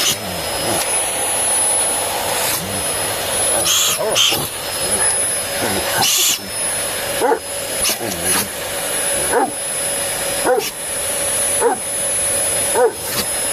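Vacuum cleaner running steadily, a constant rushing hiss with a high motor whine. Over it a dog gives short high-pitched yelps about once a second from a few seconds in, with a few brief louder surges in the suction noise.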